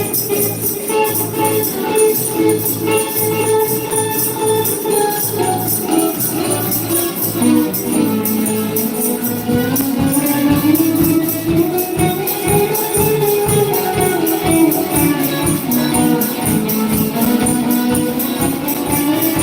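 Worship band music with a tambourine shaking a steady, rapid rhythm under a sustained melody line that slowly rises and falls.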